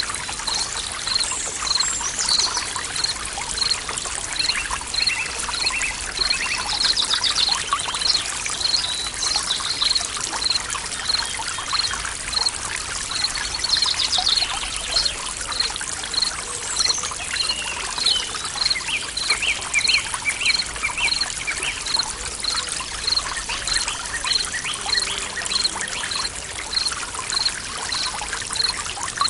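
Water trickling and splashing steadily, with birds singing short phrases now and then. A high short chirp repeats evenly about twice a second throughout.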